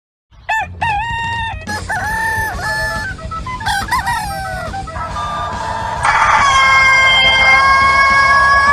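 A rooster calling: a run of short, bending calls, then a loud, long, drawn-out crow held on one pitch from about six seconds in.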